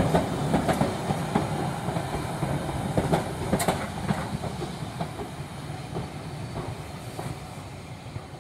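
Train wheels clicking and rumbling over rail joints (clickety-clack), growing steadily fainter as the train moves away.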